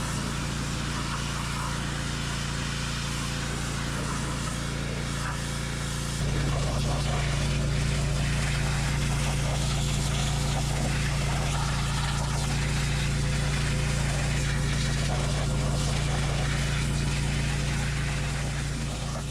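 An engine running steadily with a low, even hum, getting louder in a step about six seconds in and fading out near the end.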